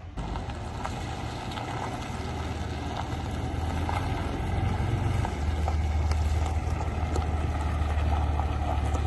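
A heavy engine running with a steady low drone that grows louder about five seconds in, with scattered clicks and knocks and some wind on the microphone.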